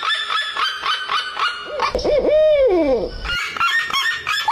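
Small birds chirping in quick repeated notes, with one louder, lower bird call about two seconds in that lasts a little over a second and slides down in pitch.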